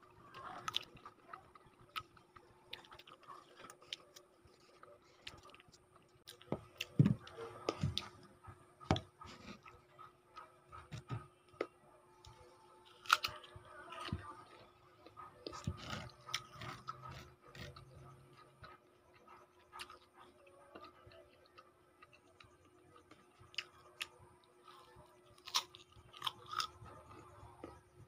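A person biting and chewing crunchy raw guava slices, with irregular crunches and mouth sounds throughout over a faint steady hum.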